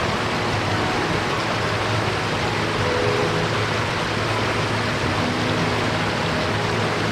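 Small mountain stream running steadily over rocks, an even rushing of water.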